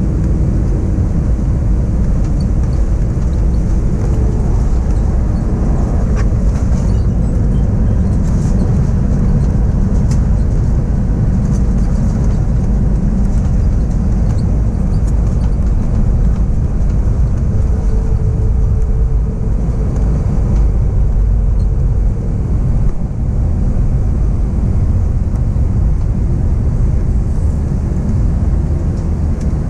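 Steady low rumble of an Airbus A321's engines and airflow heard from inside the passenger cabin during the landing.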